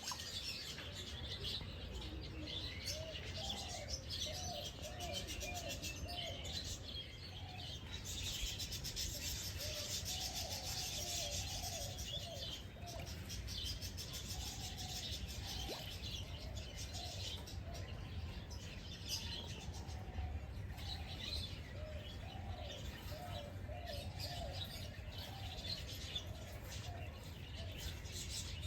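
Several wild birds chirping and calling, with runs of quick, lower repeated notes among higher chirps and a dense high-pitched stretch about a third of the way in, over a steady low rumble.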